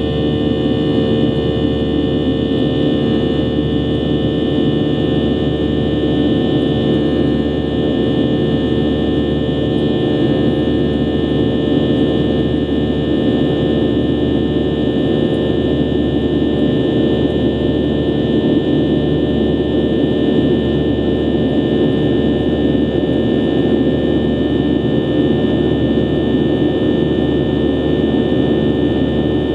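Boeing 737-800's CFM56-7B turbofan engines heard from inside the passenger cabin: a loud, steady drone with several steady fan tones over it, unchanging throughout.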